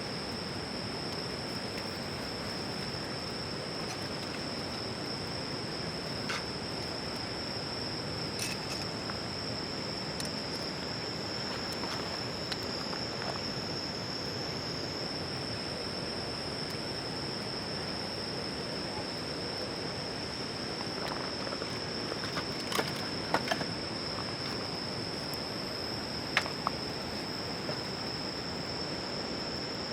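Insects singing steadily at one high pitch over a constant hiss, with a few sharp pops and crackles from a wood campfire, most of them near the end.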